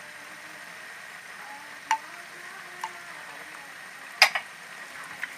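Mallow greens and sauce frying in oil in a pan with a steady sizzle. A few sharp clicks break in, the loudest a quick double knock about four seconds in.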